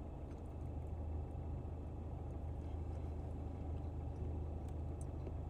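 A steady low-pitched rumble with no distinct events.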